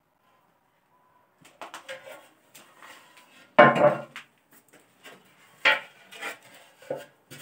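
Irregular knocking and clattering of hard objects, with scraping between, the loudest knock a little past the middle.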